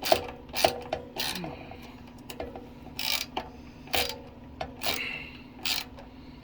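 Irregular clicks and scrapes of hand tools driving screws during assembly of a sewing machine table, over a steady low hum.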